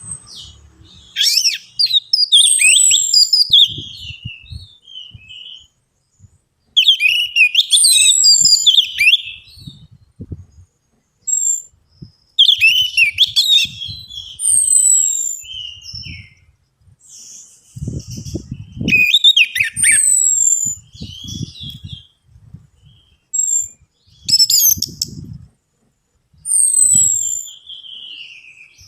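Orange-headed thrush singing loud, varied whistled phrases of two to three seconds each, repeated every five or six seconds, with soft low thumps in between.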